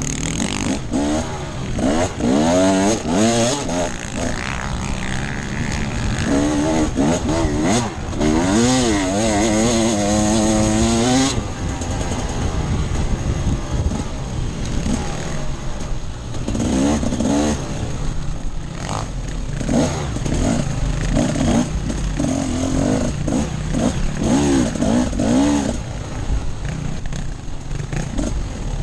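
Off-road enduro motorcycle engine being ridden hard, its pitch repeatedly climbing under throttle and dropping back, with the longest, loudest rise from about a third of the way in.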